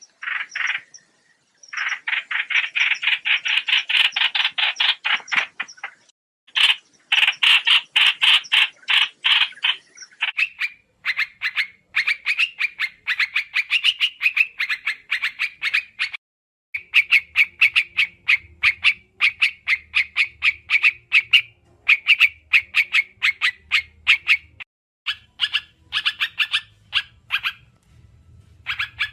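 Trao trảo bird calling: fast runs of sharp, repeated chattering notes, several a second, in bursts of a few seconds with short breaks. A lure recording used to call the bird in for trapping. A faint low hum joins in past the middle.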